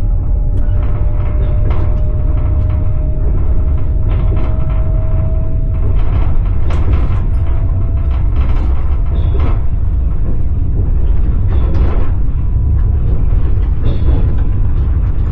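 Passenger train running, heard from inside the carriage: a steady low rumble with the knock of the wheels over rail joints about once a second. A faint whine rises slowly over the first half.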